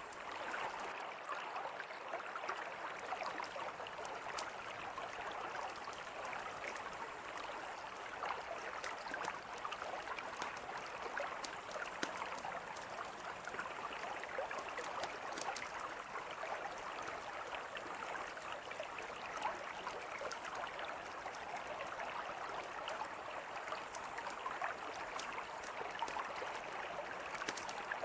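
A mountain river flowing in a steady rush, with the sharp, irregular crackles of a campfire scattered through it.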